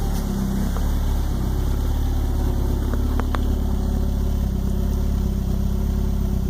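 Mk2 VW Jetta GLI's four-cylinder engine idling steadily on a cold start, heard from the rear of the car. The engine is still warming up and trying to find its idle.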